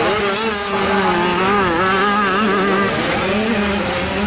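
85cc two-stroke motocross bikes racing, their engines revving up and down as the riders work the throttle.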